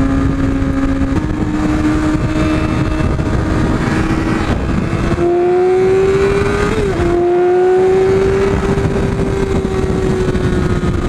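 Yamaha R6 motorcycle's inline-four engine running at high revs under way, heard from on the bike with wind rushing past. Its note climbs slowly in pitch, with a brief sharp dip about seven seconds in before it rises again.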